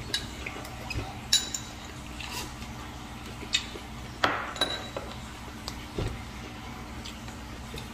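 Eating a fresh rice-paper roll with crisp vegetables: quiet chewing broken by a few short clicks and crunches, and a light clink or two of tableware, the loudest about four seconds in.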